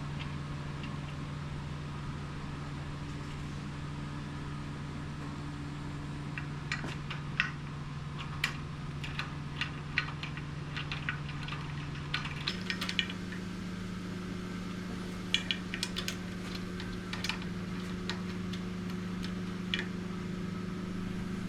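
Light metallic clicks and clinks of washers, nuts and a socket being handled while fitting an outboard's lower unit onto its mounting studs, scattered through the second half. Under them runs a steady low hum that steps up in pitch about halfway through.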